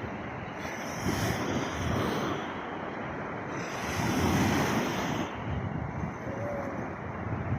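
Cold sea waves washing in on the shore: a steady rush with two louder surges, about a second in and again around four seconds in, and wind buffeting the microphone.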